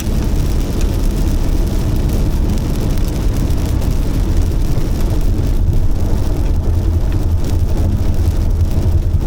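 Heavy rain falling steadily, heard mostly as a loud low rumble with fainter hiss above it.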